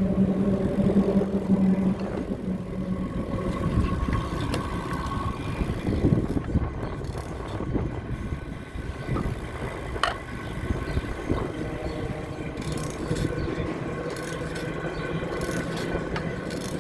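Road traffic: a vehicle's engine hum fades away in the first two seconds, leaving a steady low rumble of passing traffic.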